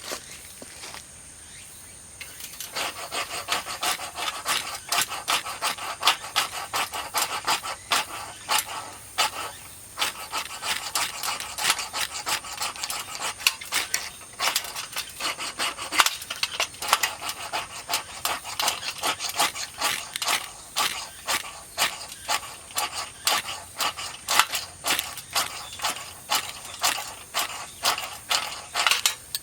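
Rapid back-and-forth rasping strokes of a hand tool working wood, two or three strokes a second, starting a couple of seconds in and pausing briefly partway through. A steady high-pitched tone runs underneath.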